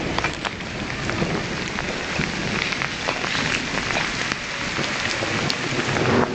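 Heavy rain falling steadily, with many close drops ticking sharply on hard surfaces, during a thunderstorm. A low rumble of thunder starts to build near the end.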